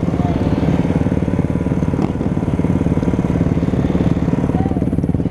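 Off-road vehicle engine running steadily under way, a fast, even exhaust pulse with little change in pitch.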